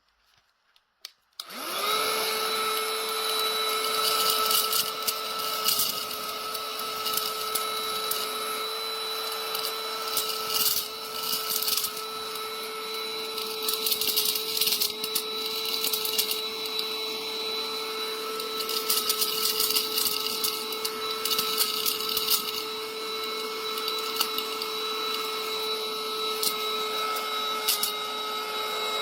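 Handheld mini car vacuum switched on with a click, its small motor spinning up to a steady high whine, with intermittent crackling and rattling over it.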